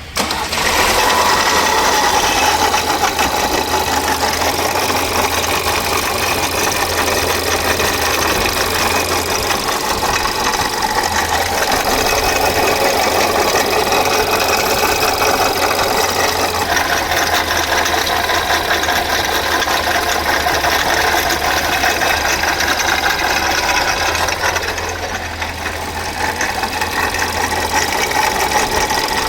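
Volkswagen Polo engine running steadily, the engine noise that is being traced. It comes in sharply about half a second in.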